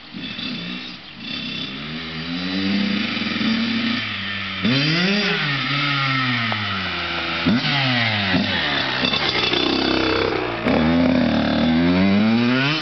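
Motocross bike engine revving up and down repeatedly, with sharp throttle rises about five, seven and a half, and ten and a half seconds in. It grows louder after the first couple of seconds.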